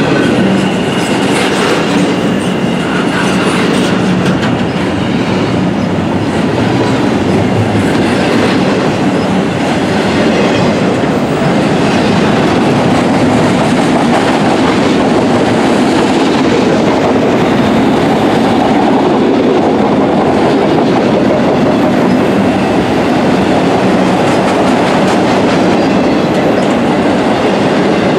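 CSX intermodal freight train's cars rolling past at trackside: a loud, steady rumble of steel wheels on rail with a clickety-clack of wheels over the rail joints.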